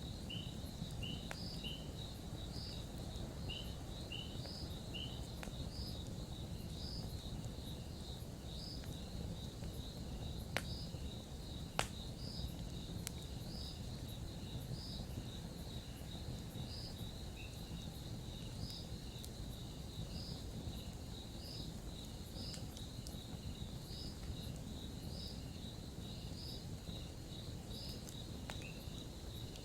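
Campfire burning with a steady low rush and two sharp crackling pops a little before the middle. Crickets chirp throughout in an even rhythm, about one chirp a second, over a steady high trill.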